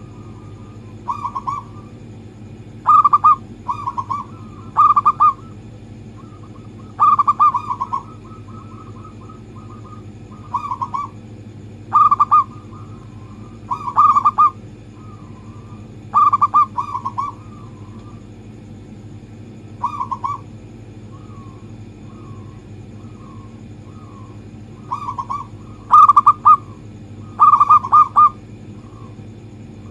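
Zebra dove (perkutut) cooing: short, rolling coos, each under a second, repeated irregularly every second or two, some louder and some fainter, over a steady low hum.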